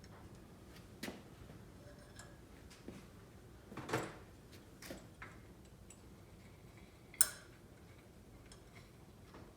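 Scattered clinks and knocks of metal tools and parts being handled on a workbench: a few light taps, a duller clunk about four seconds in, and a sharp, ringing metallic clink a little after seven seconds.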